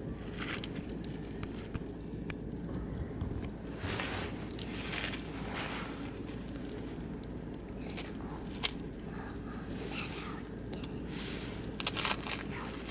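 Oak and beech wood fire crackling, with scattered sharp pops and louder noisy spells about four seconds in and again near the end.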